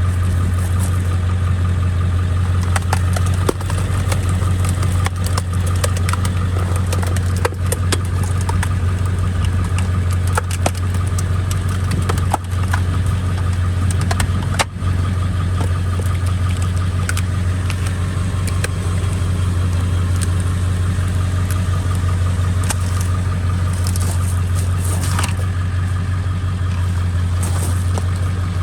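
Pickup truck engine running steadily in second gear, spinning a screw-cone log splitter on the raised rear wheel hub, with scattered short knocks and clicks.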